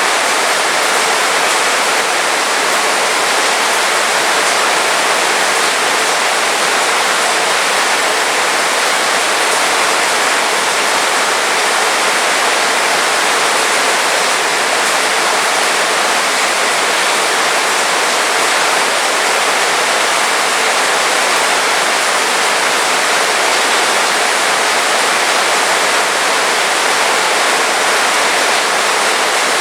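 Heavy rain falling, a dense, even hiss that stays steady throughout.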